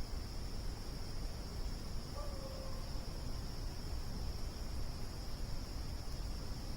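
Steady high-pitched chorus of crickets, over a low rumble. About two seconds in, a brief faint single-pitched call sounds once.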